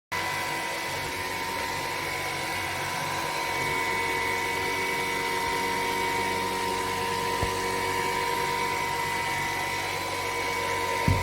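Dreame T20 cordless vacuum running steadily with a high motor whine over a rushing hiss, starting suddenly; a short knock near the end.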